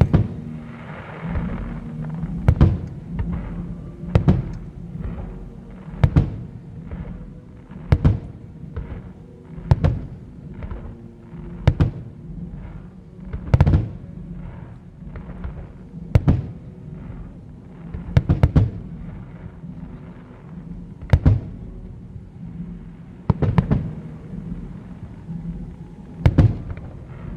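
Fireworks shells bursting in sharp bangs, about one every two seconds, some in quick pairs, over show music playing underneath.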